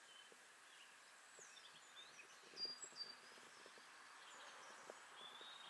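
Near silence with faint small birds chirping and giving short high whistles, scattered through. A few soft knocks about halfway through.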